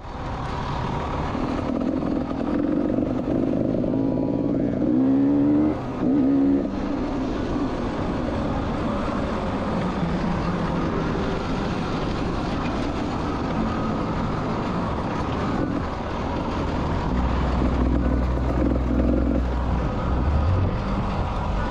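Enduro motorcycle engine running under changing throttle while being ridden off-road, heard from a camera mounted on the bike, with a rush of noise over it. The revs rise sharply twice about five to six seconds in.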